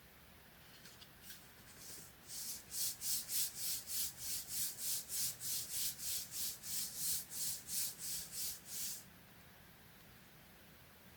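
Rhythmic back-and-forth rubbing on paper, about three strokes a second for roughly seven seconds, starting about two seconds in and stopping near the end, with a few faint ticks before it.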